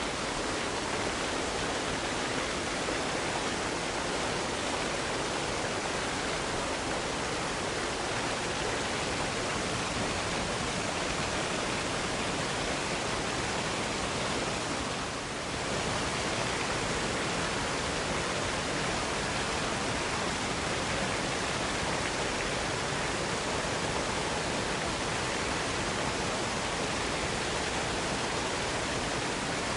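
Waterfall cascade pouring steadily, an even, continuous rush of falling water that dips slightly for a moment about halfway through.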